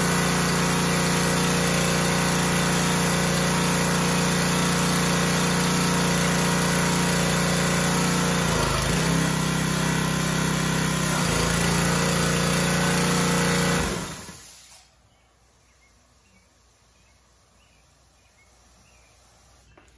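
Small gasoline engine of a Craftsman pressure washer running steadily, now starting after its carburetor was cleaned. Its note shifts briefly for about two seconds in the middle, and after about fourteen seconds the engine shuts off and winds down within a second.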